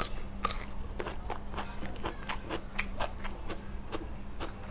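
A person chewing a mouthful of blanched-shrimp salad, with irregular wet smacks and clicks several times a second.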